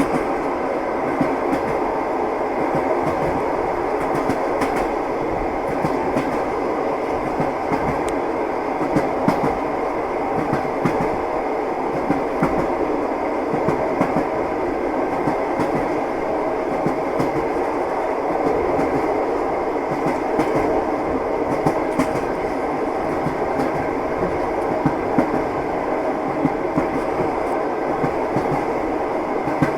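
Train wheels clattering on the rails: a steady rumble with scattered short clicks and knocks throughout.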